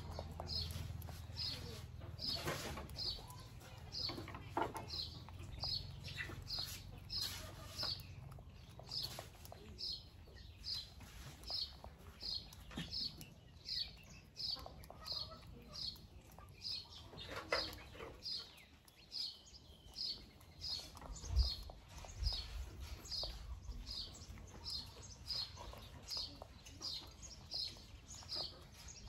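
A small bird chirping steadily, a little more than one short high chirp a second. Beneath it, faint rustling and scratching of a monkey's fingers picking through hair.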